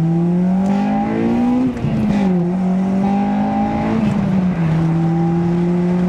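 Honda VTEC four-cylinder engine of a manual car, heard from inside the cabin, pulling up through the revs for under two seconds. The revs then drop sharply at an upshift and hold steady, with another smaller drop about four and a half seconds in.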